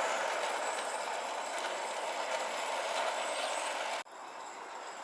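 Live-steam model of a Darjeeling Class B Sharp Stewart locomotive hissing steadily as steam escapes while it runs. The hiss cuts off abruptly about four seconds in, leaving a quieter hiss.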